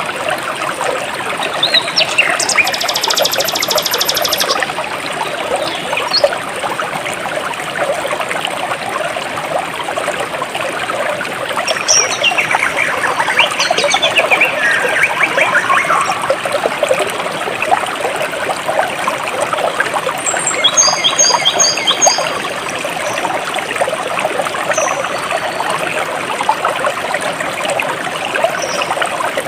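Shallow jungle stream trickling and splashing over stones, with birds calling now and then over the water. There is a buzzy call about three seconds in, and a short run of quick repeated whistled notes about two-thirds of the way through.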